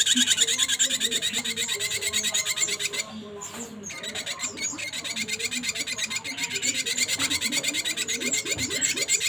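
Ashy drongo singing: a fast run of sharp, repeated high notes that breaks off briefly about three seconds in, then resumes.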